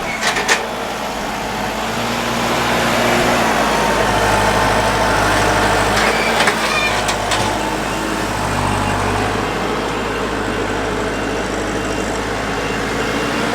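A vehicle on the move: steady engine and road noise, with the engine's low hum shifting in pitch a few times as it changes speed.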